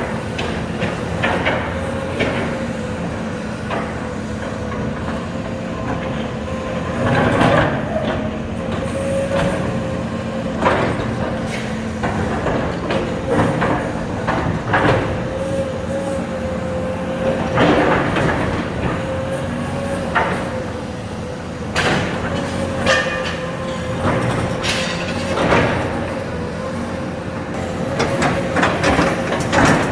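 Komatsu PC210 hydraulic excavator working demolition: its diesel engine and hydraulics run steadily with a steady whine, while metal-and-debris clanks and crashes come at irregular intervals, several of them louder.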